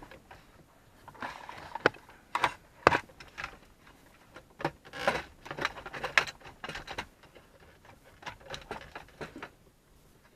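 Plastic cluster panel of a Toyota Supra Mk4 dashboard being worked free and lifted out: irregular clicks, snaps and knocks of trim and clips, with a few sharper knocks early on and a busy run of clicking in the middle.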